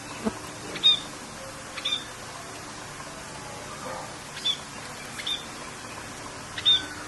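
Songbird giving short, high chirps, about five at uneven intervals, over a steady hiss of rain.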